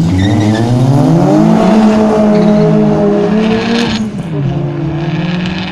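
Two drag-racing cars, a diesel Fiat Tipo and an Opel Astra, accelerating hard off the start line. The engine note climbs over the first second and a half, holds high, then drops at a gear change about four seconds in.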